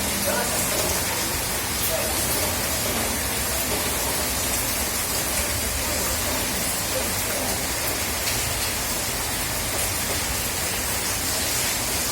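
Steady rain falling: an even hiss with faint scattered ticks of drops hitting surfaces.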